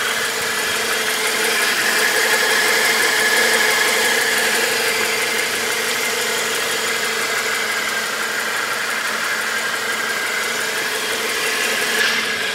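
Renault Megane 1.6-litre 16-valve inline-four engine idling steadily, heard from over the open engine bay.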